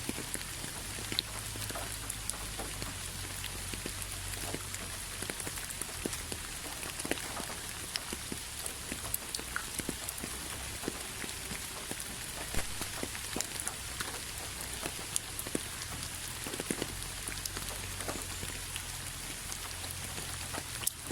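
Steady rain falling, with many separate drops tapping sharply on a hard surface over a constant hiss of rain.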